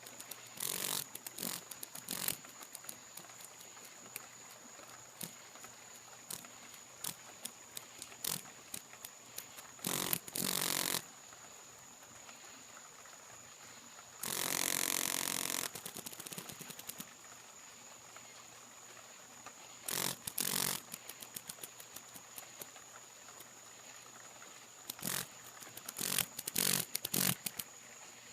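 A cicada buzzing in short, sputtering bursts and clicks that start and stop without settling into a steady call, like a motor that won't catch. The longest buzz, about halfway, lasts about a second and a half. A faint steady high tone runs underneath.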